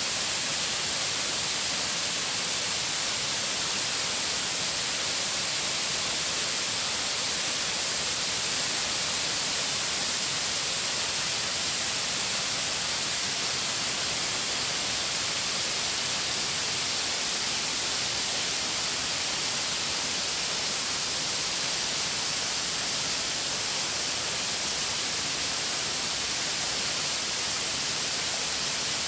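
Waterfall cascade rushing: a steady, unbroken hiss of falling water, heavy in the high end, with no change throughout.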